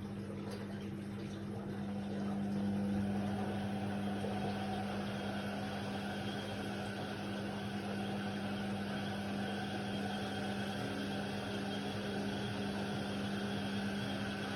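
Indesit WIDL 106 washer-dryer running mid-cycle: a steady electric hum with water sloshing, a little louder about two seconds in.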